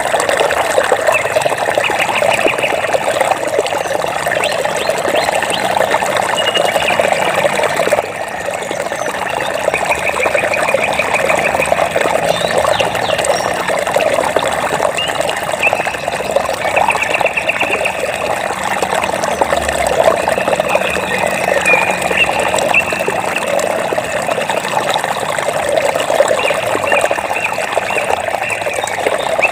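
Flowing water running steadily, with short, high, rapid trills from a small animal recurring every few seconds over it.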